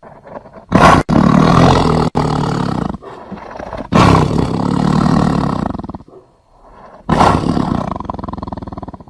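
Tiger roaring: three long, loud roars of about two seconds each, with quieter stretches between.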